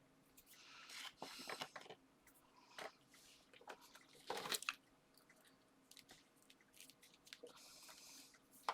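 Faint rustling and tapping of card and paper being handled and pressed down, with a few short crinkling rustles and light clicks.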